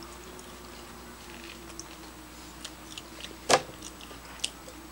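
Quiet eating at a table: scattered small clicks from chewing and mouth noises, with one sharper click or crunch about three and a half seconds in, over a faint steady hum.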